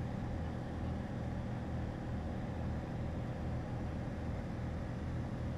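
Piper single-engine light aircraft's piston engine and propeller droning steadily in cruise flight, a low hum with a slight regular beat.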